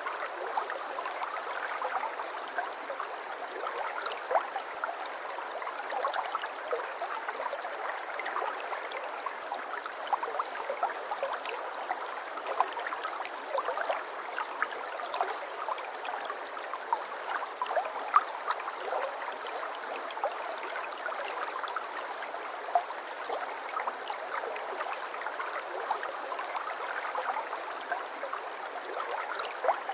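Babbling brook: shallow water running and gurgling over stones, a steady rush dotted with small splashes.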